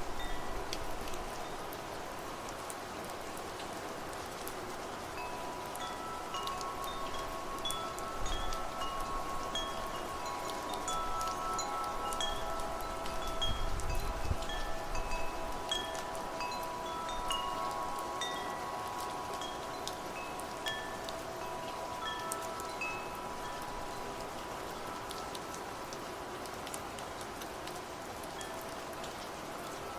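Wind chimes ringing irregularly, many overlapping tones sustaining and fading, over steady rainfall. The chimes are busiest in the middle, with soft low gusts of wind about 8 and 14 seconds in.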